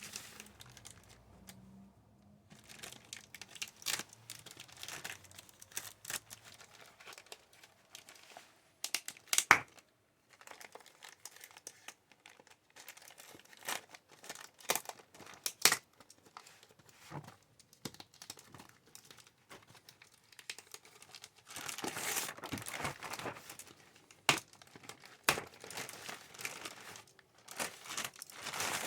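A shipping package being opened by hand: its wrapping crinkles and tears in irregular bursts, with sharp clicks and snaps scattered through and a louder, denser stretch of crinkling over the last seven seconds.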